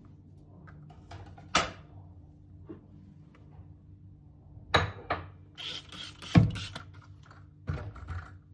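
Household objects being handled and set down: a single knock about a second and a half in, then a run of clatters and thuds in the second half, the loudest just past the middle, over a steady low hum.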